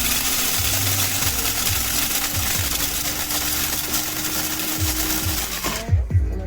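Amazon Basics electric blade coffee grinder running with a steady whirring hum, over background music with a beat. It cuts off about six seconds in.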